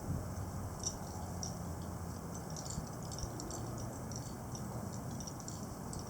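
Gusty wind blowing, a steady rushing noise, with many faint short high ticks scattered through it.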